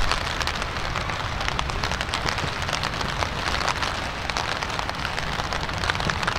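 Steady rain falling, with many small raindrop taps close by over a constant hiss and a low rumble.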